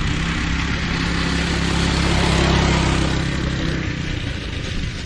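A vehicle engine running at a steady note, getting louder up to about the middle and then easing off again.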